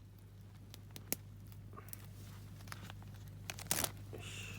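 Plastic food packet crinkling and being torn open: faint scattered crinkles and clicks, with a short louder rustle near the end.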